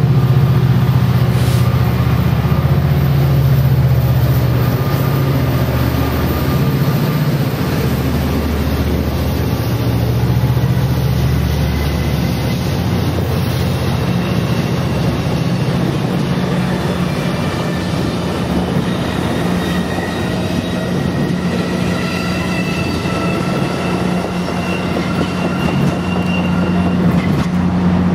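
Diesel locomotive of a passenger train running close by, a loud, steady low hum of engine and rolling train. Faint high-pitched squealing comes in during the second half.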